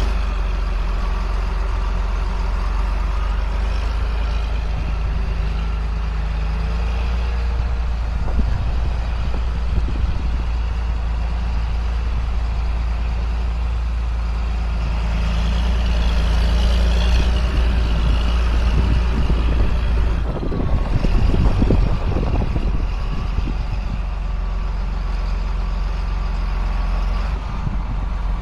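2005 John Deere self-propelled sprayer running steadily with a low engine drone while driving through the field. About twenty seconds in there is a short stretch of rattling and knocks.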